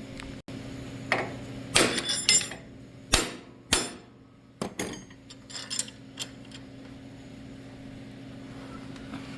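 Sharp metallic knocks on a steering wheel puller fitted to a garden tractor's steering wheel, about ten irregular blows in the first six seconds, working the wheel loose from its shaft, over a steady low hum.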